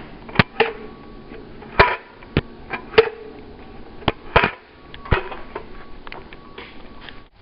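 Irregular sharp knocks and clatters, about eight over several seconds, as dryer vent parts are pulled out and handled.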